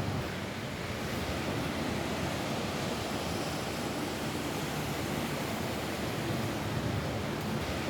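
Rain falling steadily on a roof, an even hiss with no single drops or gusts standing out.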